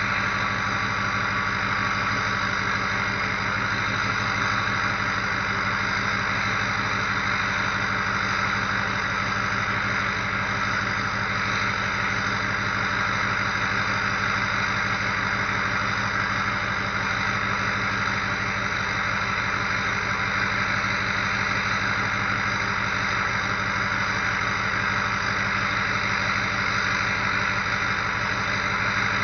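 2004 Ford F-250's 6.0L Power Stroke V8 turbo diesel idling steadily during warm-up from a 15°F cold start, most likely at its cold high idle, with a steady turbo whistle over the engine.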